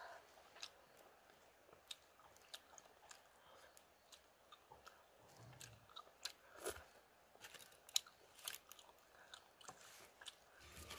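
Faint eating sounds: chewing, with small irregular clicks and scrapes as fingers pick meat out of grilled mussel shells.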